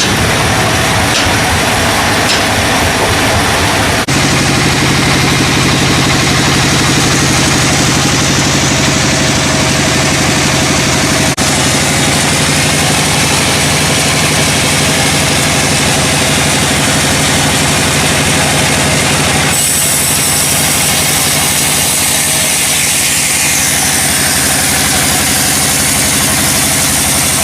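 An engine running steadily and loudly. Its sound shifts abruptly about four seconds in, again about eleven seconds in, and near twenty seconds in.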